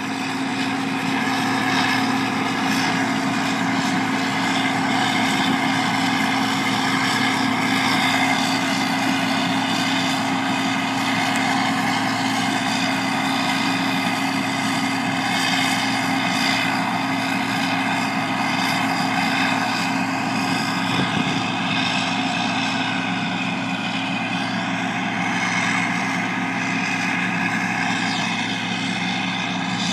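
Harvest machinery's engine running steadily, an even mechanical drone with a constant hum that does not change in pitch or level.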